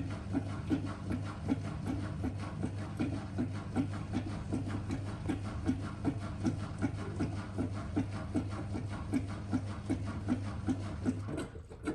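Miele W1 washing machine running in its cleaning cycle: a steady low hum with a regular pulsing swish about three times a second, which stops suddenly near the end.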